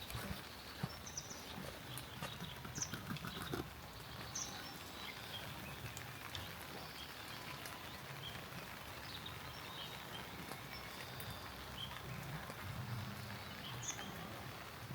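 Quiet rural outdoor ambience with a few short, high chirps scattered through it and occasional soft clicks.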